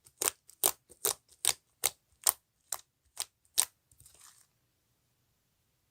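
Slime being pressed and poked, giving a run of crisp, evenly spaced pops, about two a second and nine in all, followed by a brief soft squish and then stillness.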